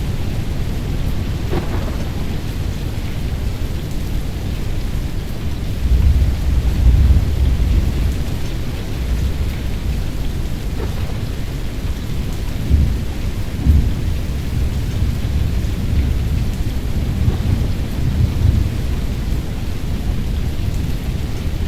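Storm noise: steady rain hiss under a low rumble that swells several times.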